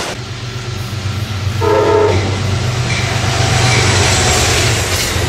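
Train passing at speed with a steady low rumble and running noise, and a short blast of the train horn about one and a half seconds in.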